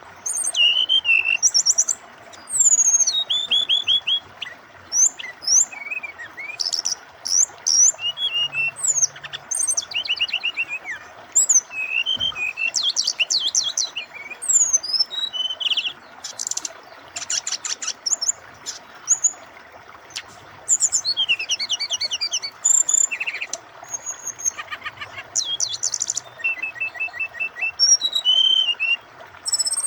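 Brown-chested jungle flycatcher (SRDC) singing energetically, a long run of varied phrases: clear whistled glides, rapid trills and fast chattering runs with short pauses between them. A steady sound of flowing water runs underneath.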